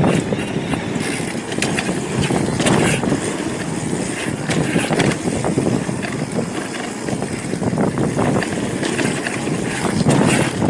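Mountain bike riding over rocky singletrack: tyres crunching over dirt and rock, with frequent knocks and rattles from the bike as it bounces through the rough ground.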